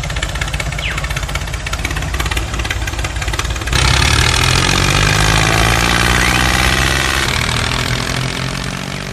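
Tractor engine running steadily with a rapid low chugging, then louder and fuller from about four seconds in, fading out near the end.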